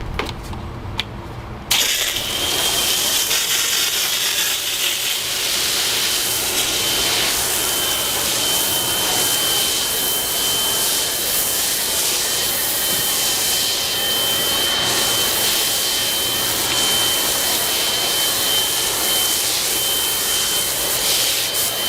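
Electric pressure washer starting up about two seconds in and running steadily, spraying car-wash foam through a foam cannon: a strong spray hiss with a steady high-pitched whine over it.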